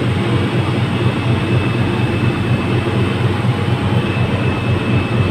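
Passenger ferry's engines droning steadily, a constant low rumble with a faint steady whine above it.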